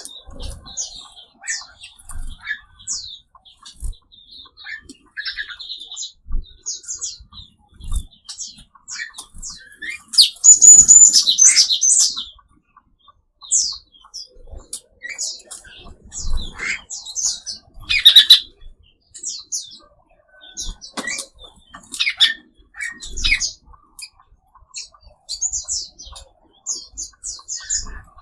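Mixed songbirds in an aviary chirping and twittering in many short, high calls. A louder burst of rapid chirping comes about ten seconds in, and a sharp loud call comes about eighteen seconds in. Faint low thumps are scattered throughout.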